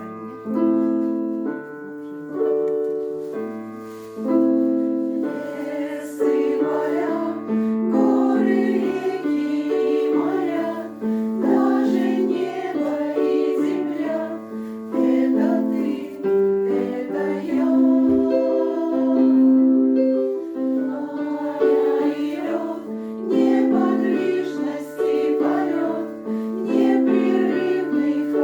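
Choir singing with piano accompaniment. The piano plays alone for the first few seconds, and the voices come in about six seconds in.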